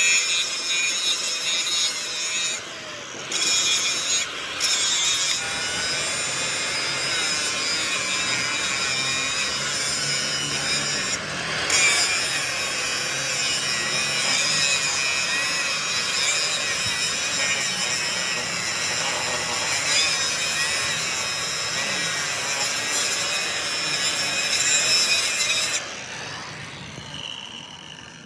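Angle grinder grinding steel, running steadily with a high whine. It breaks off briefly a few times and stops about 26 seconds in.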